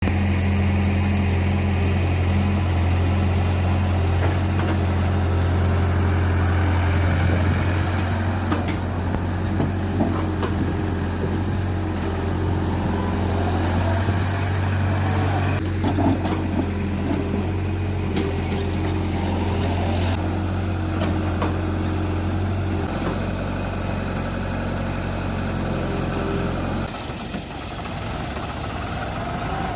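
Diesel engine of heavy machinery running steadily with a low, even hum; about three-quarters through its note shifts, and near the end it drops and becomes quieter.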